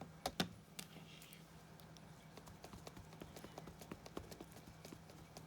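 Faint, quick, irregular light taps of a small Stampin' Spot ink pad being dabbed onto a rubber stamp to ink it.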